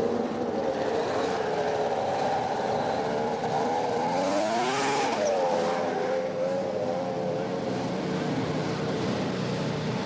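Two-stroke snowmobile engines running steadily; about halfway through, one sled's engine sweeps up in pitch and back down as it goes past close by.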